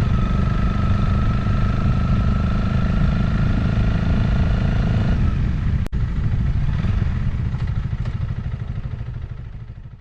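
Motorcycle engine running at road speed with low rumble, its steady note dropping away about five seconds in. A single sharp click follows, and the sound then fades out.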